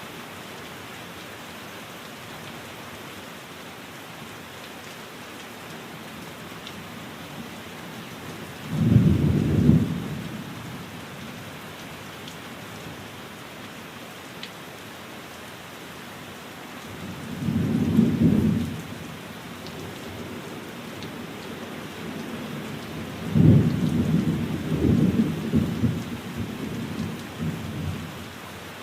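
Steady rain falling, with three low rumbles of thunder: a short one about nine seconds in, another about eighteen seconds in, and a longer rolling one starting about twenty-three seconds in. The thunder rumbles are the loudest sounds.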